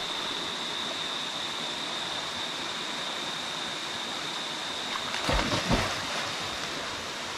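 Steady rush of a creek cascade falling into a swimming hole, with a thin, steady high-pitched whine over it. About five seconds in there is a short louder burst of bumps, such as a splash or a gust on the microphone.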